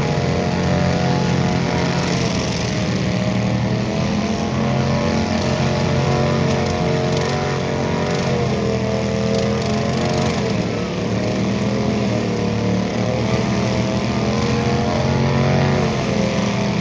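Tractor engine running steadily, its pitch rising and dipping a little now and then.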